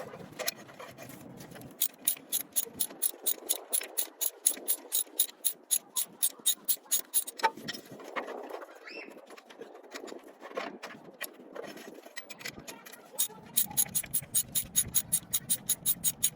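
Hand ratchet wrench clicking in quick, even strokes, about four to five clicks a second, in two runs with a pause of several seconds between them, as nuts on the truck's battery brackets or terminals are worked.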